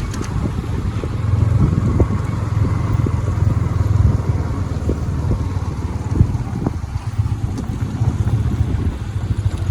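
Motorcycle engine running under way, a steady low drone, with a few short knocks now and then.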